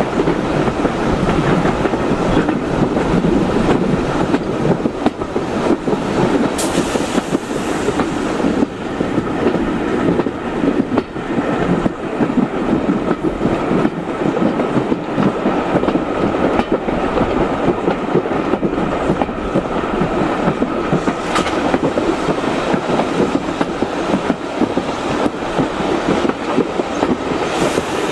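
Steady running noise of a steam-hauled passenger carriage rolling along the rails, wheels rumbling over the track.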